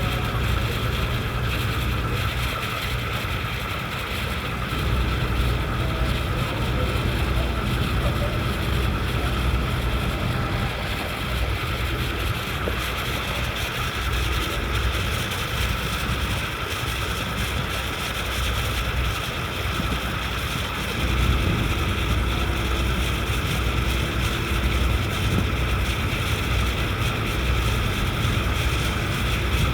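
Ferry's engine running steadily on the crossing: a low drone that swells about five seconds in, eases in the middle and swells again about twenty-one seconds in, over a steady mechanical hum, with wind on the microphone.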